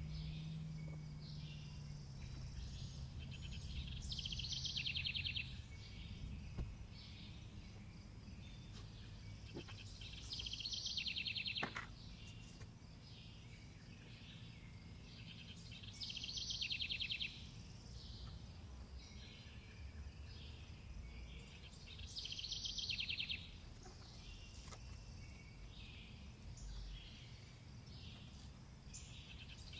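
A songbird singing the same short, high, trilling phrase over and over, about every six seconds, over a low steady rumble of background noise.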